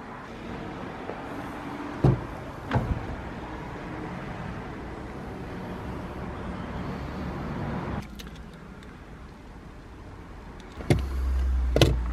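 Two sharp clicks about two seconds in. Near the end, the Škoda Octavia's 2.0 TDI four-cylinder diesel starts with a sudden low rumble and settles into a steady idle.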